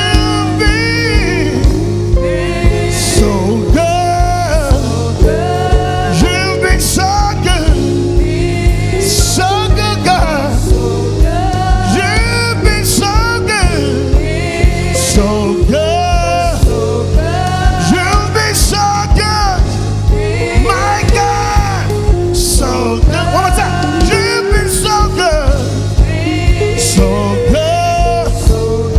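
Live gospel praise-and-worship music: a band playing with a steady drum beat under singing voices.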